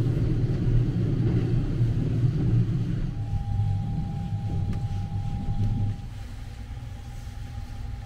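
Low rumble of the Sunrise Izumo sleeper train, heard inside a private sleeping cabin. About three seconds in, a faint steady high tone joins it. Near six seconds the rumble drops noticeably quieter.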